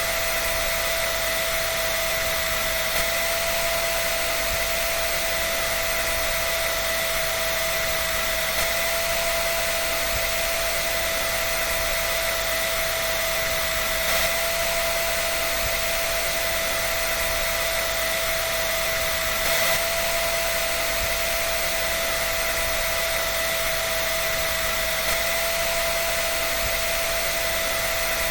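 Hair dryer running continuously: a steady rush of air with a constant high motor whine.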